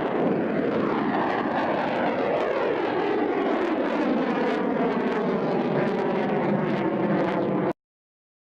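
Kalibr cruise missile launching: the steady, loud rushing noise of its rocket booster, with a slowly falling sweep through the sound as it climbs away. It cuts off abruptly near the end.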